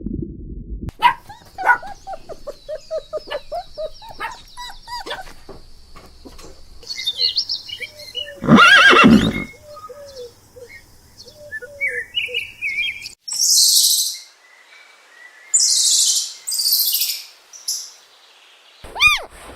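A string of animal sounds: small birds chirping and calling, then one loud, harsh blast about a second long near the middle, followed by several short hissing bursts and, near the end, a new call with falling tones.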